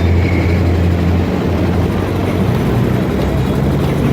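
Steady low engine drone, its hum shifting slightly in pitch a little over a second in.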